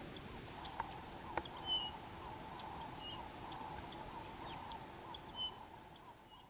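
A small songbird calling: short, thin, high notes repeated about once a second, over a continuous lower twittering.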